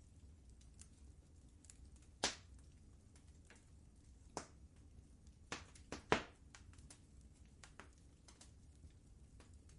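Wood fire crackling in a fireplace: irregular sharp pops and snaps over a low steady rumble, with the loudest pops about two seconds in and about six seconds in.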